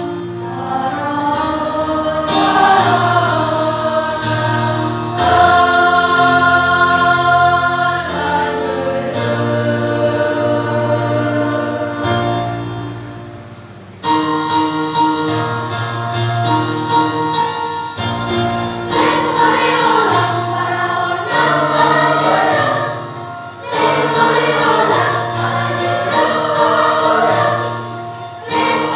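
A school choir singing in harmony with long held chords. A phrase dies away about halfway through, and the singing comes back in with a new phrase.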